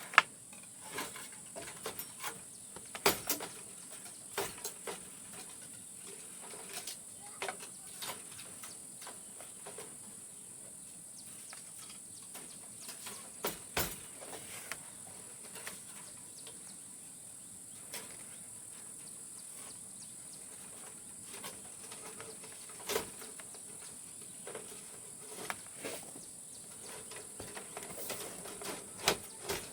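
Steady high-pitched drone of insects, with scattered sharp clicks and knocks, the loudest right at the start and another about three seconds in.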